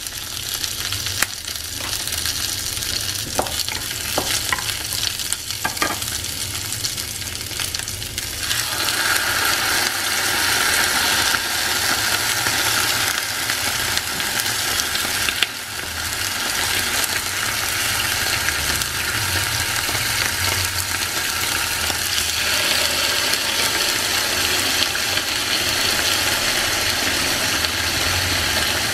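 Garlic, ginger and lemongrass sizzling in oil in a nonstick frying pan, with a few sharp taps of a wooden spatula. About eight seconds in the sizzle turns louder and stays so as raw tenggiri (Spanish mackerel) steaks go into the hot pan.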